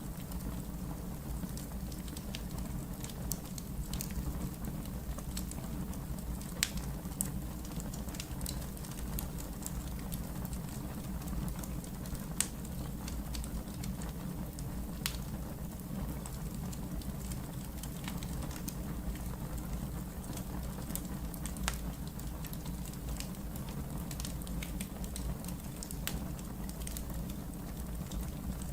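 Wood fire crackling in a fireplace: scattered sharp crackles and pops at irregular intervals over a steady low rumble.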